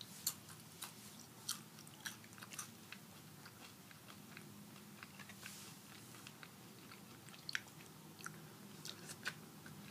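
A person biting and chewing a crunchy nacho chip: irregular sharp crunches, the loudest just after the start and about seven and a half seconds in.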